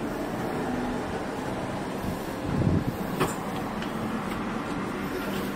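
Steady hum and noise of the Shanghai maglev train standing at the platform, with a faint steady tone in it, a brief louder patch and a short knock about three seconds in.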